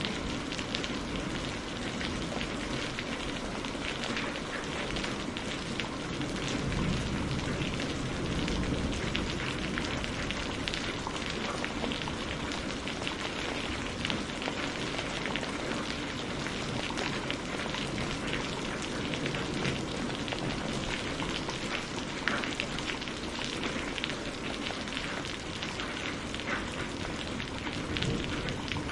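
Steady rain, a continuous dense hiss with the sharp ticks of many individual drops striking a surface.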